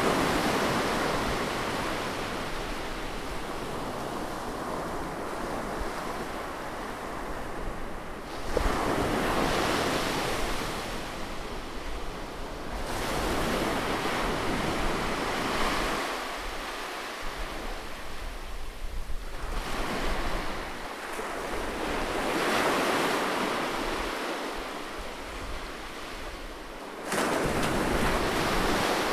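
Close-up seaside waves breaking and washing ashore, rising and ebbing in swells every six or seven seconds, with a sudden surge of surf near the end.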